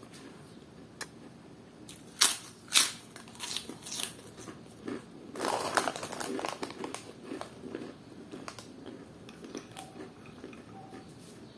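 Crunchy bacon-shaped snack being bitten and chewed close to the microphone. Two sharp crunches come about two seconds in, then a longer burst of crunching around the middle, followed by softer scattered crackles.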